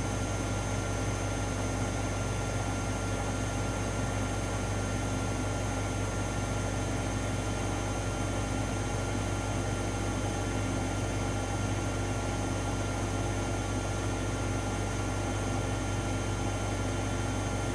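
AEG Lavamat L74810 washing machine running steadily, a constant motor hum with a few fixed higher tones and no change in pace.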